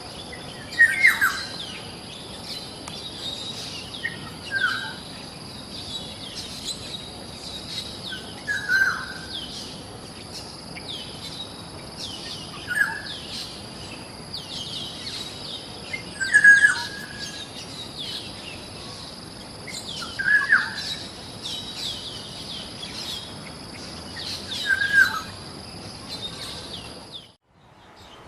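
Birds chirping: a fast run of short high chirps throughout, with a louder, lower call about every four seconds, over a steady high-pitched buzz. The sound cuts off abruptly about a second before the end, then different chirping starts.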